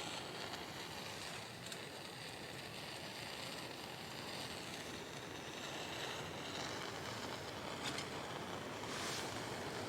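Wind rushing through the trees in a steady gusty wash, with a few faint clicks near the end.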